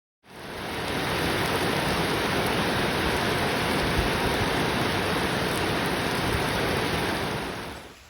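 Heavy rain falling, a steady dense hiss that fades in just after the start and drops to much quieter rain near the end.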